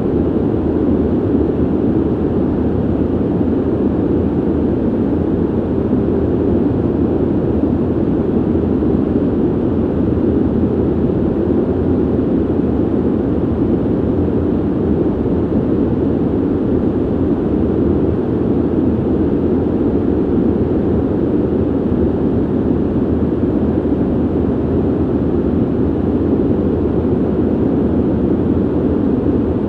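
Steady rush of air from a ventilation system: an even, deep noise with little hiss and no change throughout.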